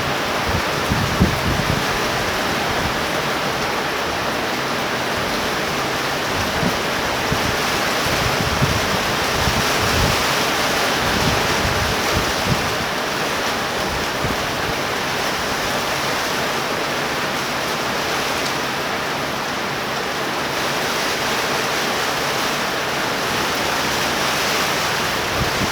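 Torrential rain pouring steadily in a thunderstorm, with gusts of wind buffeting the microphone now and then.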